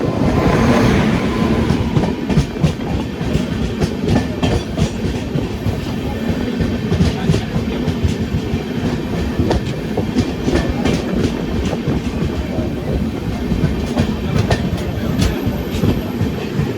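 Express passenger train running at speed: steady rumble of the coaches with wheels clicking over rail joints, and a louder rush of noise in the first couple of seconds.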